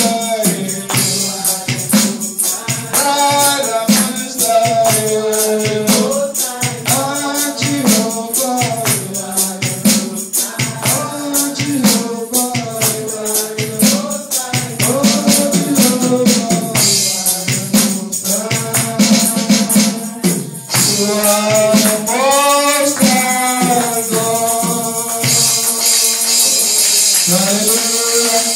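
Worship singing with a tambourine shaken and struck in a steady beat under the voices.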